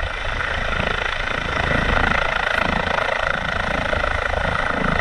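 Emergency medical helicopter running: a steady rotor beat under a turbine whine, growing louder over the first couple of seconds and then holding steady.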